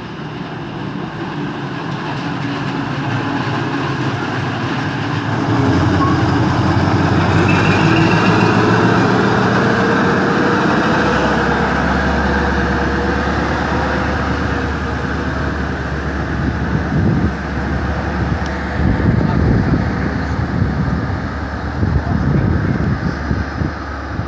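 A short train of vintage carriages hauled by a small shunting locomotive runs past at low speed, its wheels rumbling on the rails, then draws away. A low steady drone sets in about six seconds in and strengthens as the locomotive passes. Gusty low thumps come in the last few seconds.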